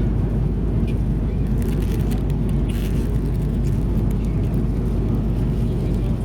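Steady low rumble of airliner cabin noise in an Airbus A330-300, heard from a passenger seat, with a few faint clicks.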